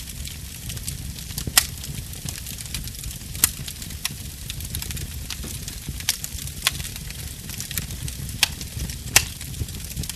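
Wood fire burning: a continuous crackle of small ticks with about six sharper pops, the loudest about one and a half seconds in, over a low steady rumble.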